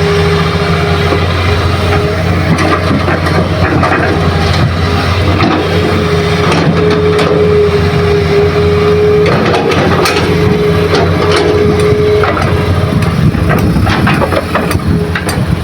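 Heavy diesel engines of an excavator and dump truck running steadily, with a whine that comes and goes and scattered knocks and clatter.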